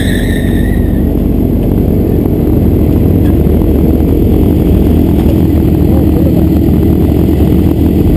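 Sport motorcycle engine running at low speed, heard close up from the bike, with a high whine that falls and fades out in the first second before the engine settles into a steady note.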